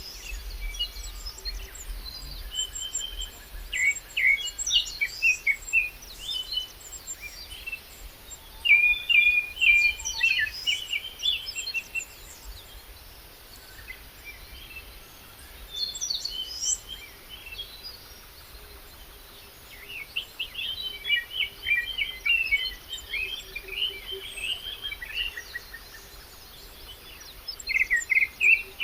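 Birds singing outdoors: bouts of quick high chirps and trills, broken by short pauses.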